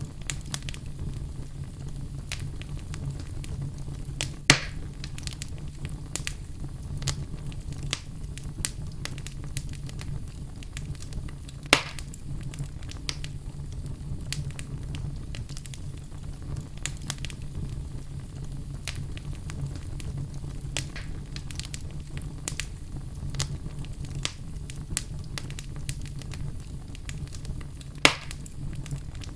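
Wood fire burning in a fireplace: a steady low rumble under frequent small crackles, with three sharp, louder pops from the burning logs spread through.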